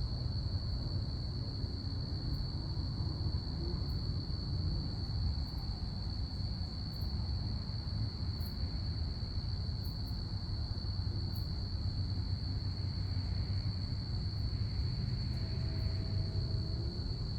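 Crickets trilling in one steady, unbroken high-pitched note, over the low rumble of a distant airplane.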